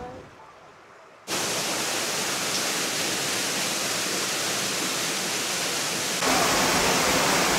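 Waterfall rushing steadily as a constant roar of water. It cuts in suddenly about a second in and jumps to a louder, deeper rush about six seconds in.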